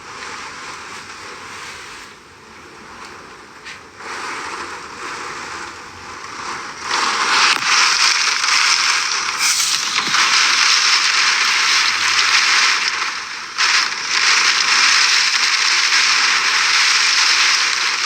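Hurricane-force wind rushing past, a steady hiss that swells to a loud, continuous roar about seven seconds in and dips briefly near the end.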